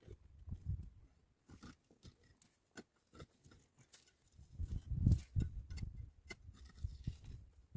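Scattered light clicks and knocks, with heavier low thuds and rumbling starting about halfway through.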